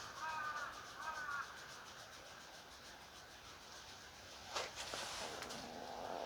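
Crows cawing in the distance, two short calls near the start, followed about four and a half seconds in by a sharp knock and a brief rustle.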